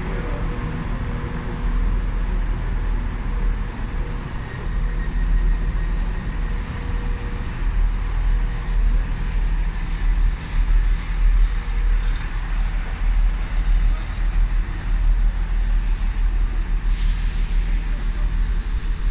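Train engine running steadily with a low rumble and a faint hum that fades about twelve seconds in.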